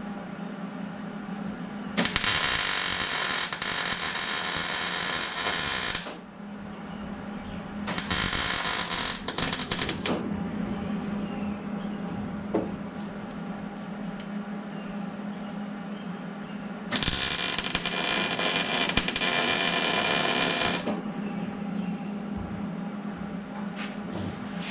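Welding on steel square tubing: three bursts of crackling arc, about four, two and four seconds long, each starting and stopping abruptly, with a steady hum between them.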